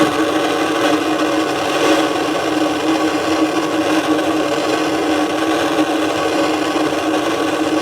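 Handheld gas plumbing torch running with a steady hiss and low hum as its flame heats a copper pipe joint that is not yet hot enough for the solder to flow.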